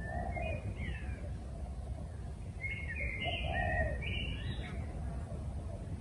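Wild bird calls: a short phrase of gliding whistled notes at the start, and a longer phrase of several notes from about two and a half seconds in, over a steady low background rumble.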